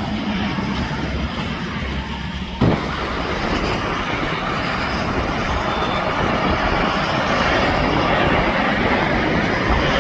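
Highway traffic passing, a steady broad noise of tyres and engines. About two and a half seconds in there is a sudden short thump, and after it the noise grows slowly louder as more vehicles come on.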